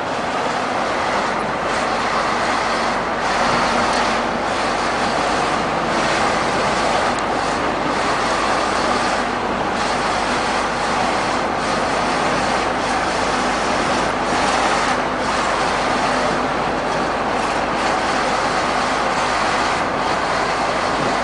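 Heavy trucks running on a highway: a steady, dense mix of engine and tyre noise with no clear single pass-by.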